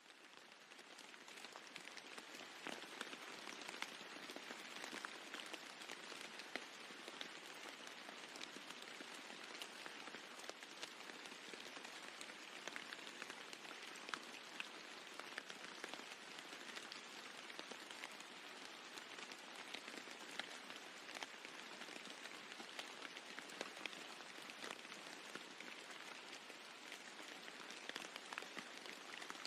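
Steady rain falling on a roof, a dense hiss with many separate drop ticks, fading in over the first two seconds.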